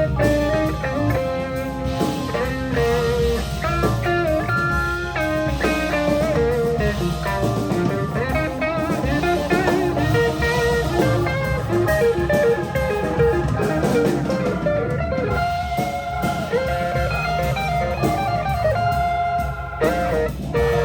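Live blues band playing an instrumental passage: an electric guitar plays a solo line with bent notes over organ and a drum kit.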